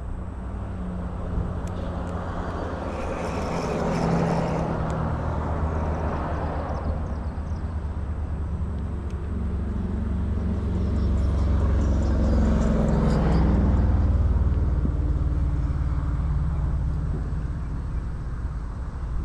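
Motor vehicles passing on a nearby road: a steady engine and tyre rumble that swells about four seconds in and again, louder, around twelve to fourteen seconds before fading.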